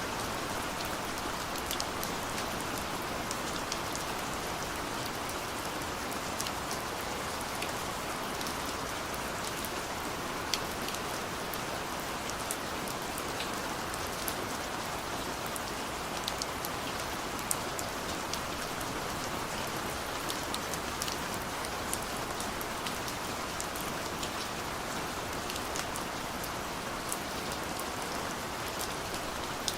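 Steady rain falling, a continuous hiss with many distinct drops ticking sharply on a surface.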